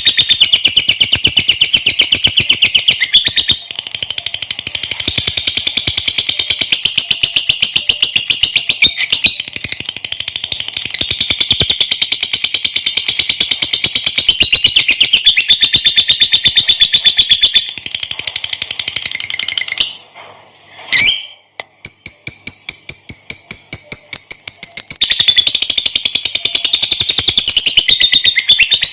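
Lovebird in long "ngekek" song: a rapid, high-pitched chattering trill kept up for many seconds. It breaks off briefly about two-thirds of the way through, goes on as a thinner trill for a few seconds, then returns to the full chatter.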